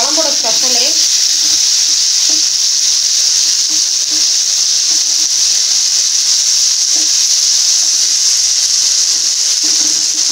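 Garlic cloves, shallots and tomato sizzling steadily in hot oil in a nonstick pan, stirred with a wooden spatula.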